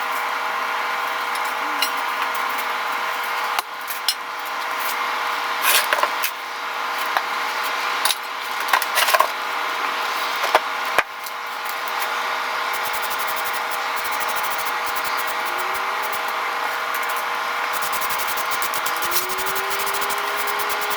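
A power tool's motor runs steadily while metal is worked, with scraping and rubbing and several sharp knocks in the middle. Near the end a motor tone rises and levels off as it spins up.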